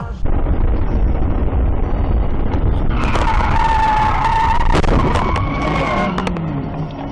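Car tyres screeching in a skid for about three seconds, over steady road and engine rumble, with a few sharp knocks partway through the squeal.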